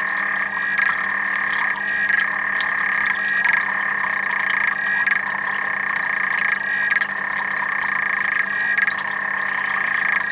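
Frogs calling in chorus: a continuous high-pitched trill that swells and eases every second or two.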